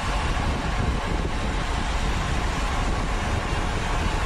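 Steady wind rush and low rumble buffeting the microphone of a camera on a racing bicycle at speed.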